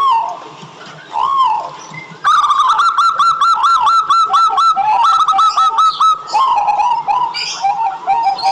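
Local Javanese zebra doves (perkutut) cooing, with a fast run of repeated rising-and-falling notes from about two seconds in to about six seconds, followed by shorter broken phrases.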